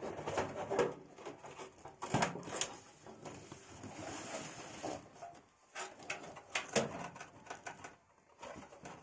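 Irregular clicks, taps and light knocks with rustling, as computer parts and screws are handled and fitted into a PC case.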